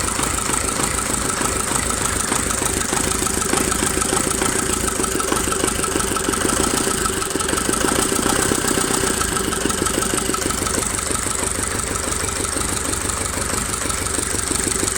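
D-240 four-cylinder diesel engine running steadily at an even speed, with a rapid, regular chugging of firing pulses, on its first run after a major overhaul.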